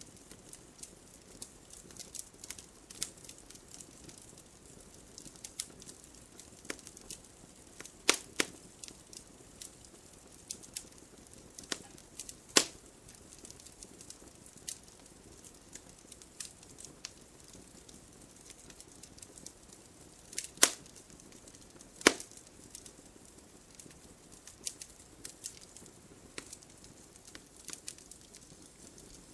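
Wood fire burning in a fireplace: logs crackling with frequent small snaps over a faint hiss, and a few loud sharp pops spread through.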